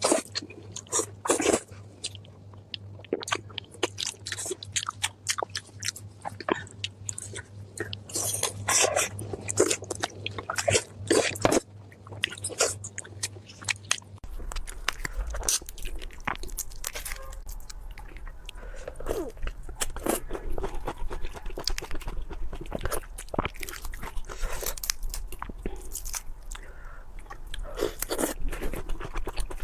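Close-miked crunchy bites and chewing of crispy food: clusters of sharp crackling crunches throughout, over a low steady hum that drops in pitch about halfway through.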